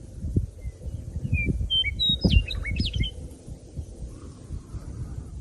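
A bird chirping: a quick run of short, sliding chirps lasting about two seconds, over a low rumble with irregular thumps.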